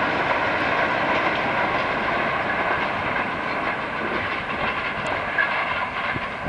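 A train running along the line past the field, a steady rushing clatter that slowly grows fainter.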